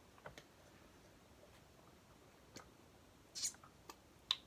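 Quiet handling noises from a plastic paint bottle: a few faint clicks, a short hiss about three and a half seconds in, and a sharper click near the end.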